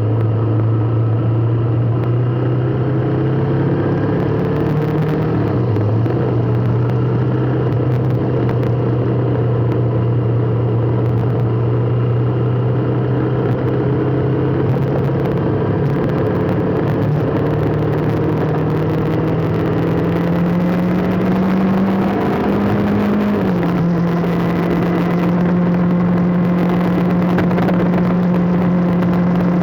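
Vehicle engine running while being driven, its hum slowly rising in pitch and dropping suddenly about 5 seconds in and again about 23 seconds in, as at gear changes.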